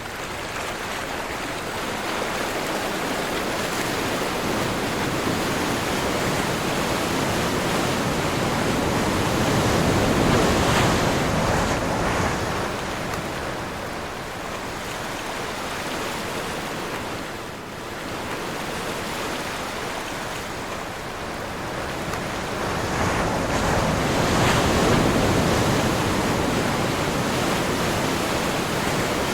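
Ocean surf in a strong wind, waves washing in with a steady rushing noise that swells twice, about ten seconds in and again near twenty-five seconds.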